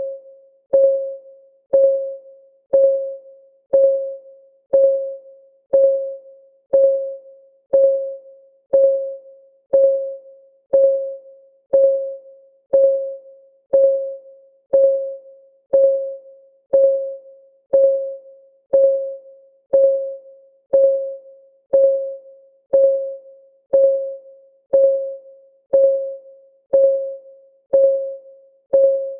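Countdown timer's clock-ticking sound: a short, pitched tick once a second, each dying away quickly, in an unbroken even rhythm.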